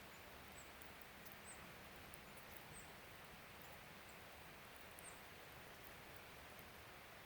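Near silence with a steady faint hiss, broken by four short, very high, faint bird chirps and a few tiny ticks.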